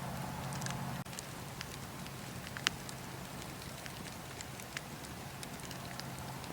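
Wood fire crackling in a fireplace: a steady low hiss broken by scattered sharp pops, the loudest about two and a half seconds in.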